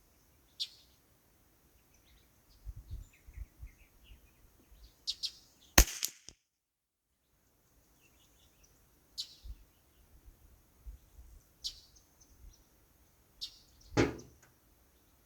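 Quiet outdoor background with scattered short bird chirps. There is a single sharp crack about six seconds in and a duller thump near the end.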